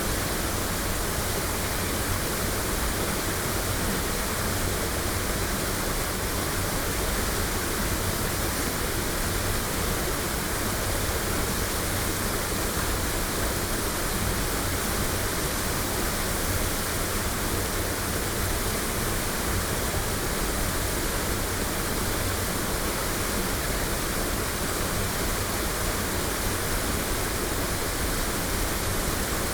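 Waterfall rushing steadily, recorded binaurally close by: a continuous, even roar of falling water with no changes.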